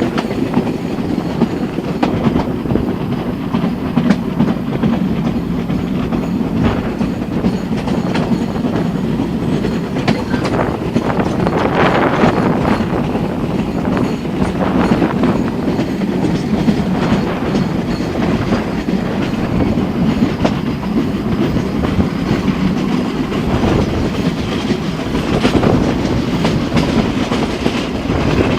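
Train running along the track: a steady rumble with irregular clacks as the wheels pass over rail joints.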